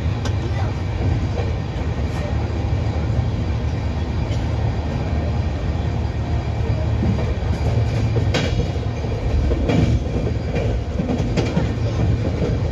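Running noise heard inside a double-decker express passenger coach travelling at speed: a steady low rumble of wheels on rail, with a few sharp clicks in the second half.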